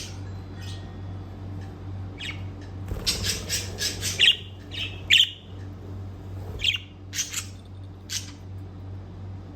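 Pet budgerigars giving short, sharp squawks and chirps. There are a few scattered calls at first, a quick run of calls about three seconds in, then single calls spaced out, all over a steady low hum.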